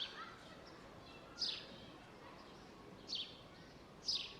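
A songbird repeating a short, high chirp that slides downward, four times at intervals of one to two seconds, over a steady background of park ambient noise.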